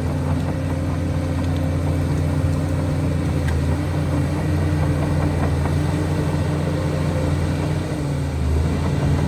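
Heavy diesel engine of a Shantui DH17C2 crawler bulldozer running steadily, its note dipping briefly about eight seconds in and then picking back up.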